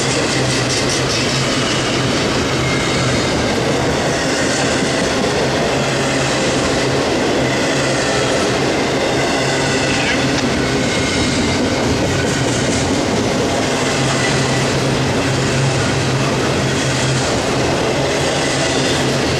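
Double-stack intermodal well cars rolling past close by: a loud, steady rumble and rattle of steel wheels on rail, with faint high-pitched wheel squeal now and then.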